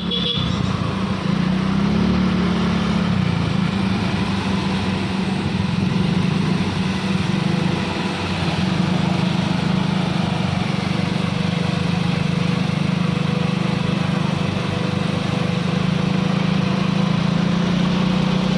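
Diesel engine of an assembled Isuzu truck straining under load as it climbs a steep uphill bend, a steady, unbroken drone.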